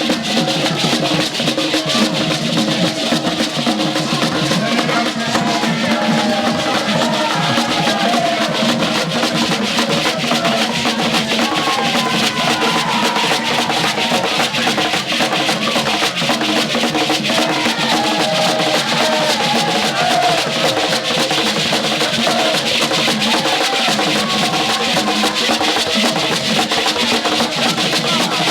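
Drumming and percussion playing a fast, dense, steady rhythm, with a wavering melodic line above it.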